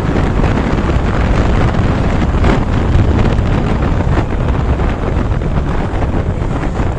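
Wind buffeting the microphone over a Suzuki Gixer SF motorcycle's engine running at speed, the throttle twisted open.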